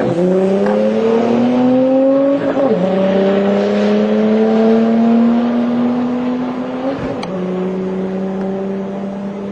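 Car engine accelerating hard down a drag strip, shifting up through the gears: the pitch climbs slowly and drops sharply at each shift, right at the start, about two and a half seconds in and again about seven seconds in. The engine sound fades a little toward the end.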